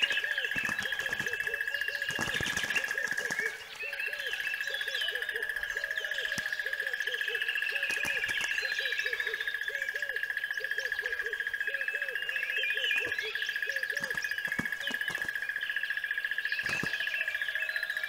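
Birds calling and chirping over a steady high-pitched whine, with a low repeated call about twice a second. The whine drops out briefly about three and a half seconds in.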